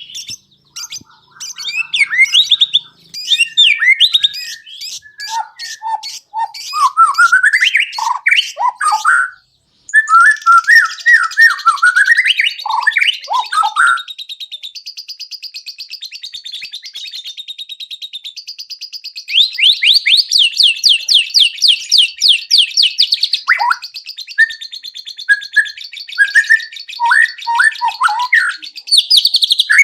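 White-rumped shama (murai batu) singing a loud, varied song of whistles, slurred phrases and fast trills. The song is full of 'isian', the other birds' calls it has learned and mimics. It breaks off briefly about nine and a half seconds in.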